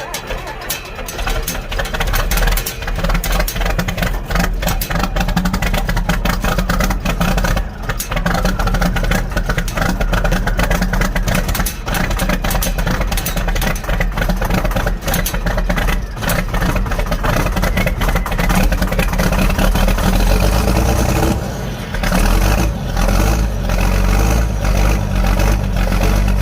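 Old tractor engine cranking and catching about two seconds in, then running with a strong low rumble. Its sound dips briefly about 21 seconds in before it picks back up.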